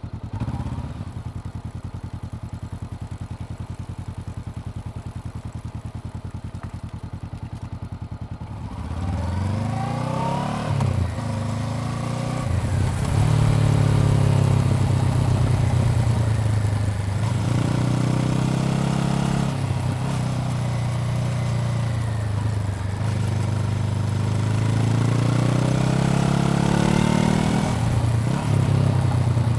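Honda CBR400R's parallel-twin engine idling for about eight seconds, then pulling away and accelerating up through the gears, the pitch rising on each gear and dropping at each shift.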